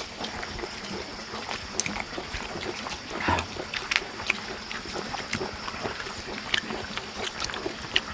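Scattered small clicks, taps and mouth noises of people eating, over a steady high-pitched insect-like drone, with one louder rustle about three seconds in.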